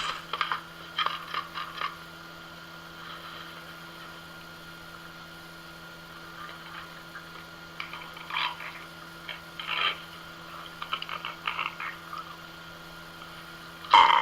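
Animal calls in short, quick rattling runs, several times over, above a steady electrical hum.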